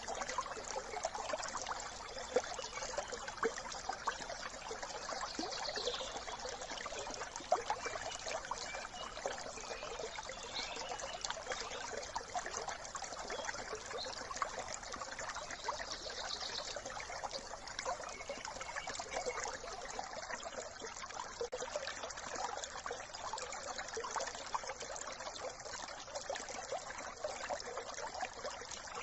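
A brook trickling and babbling over stones, a steady bubbling water sound with no letup.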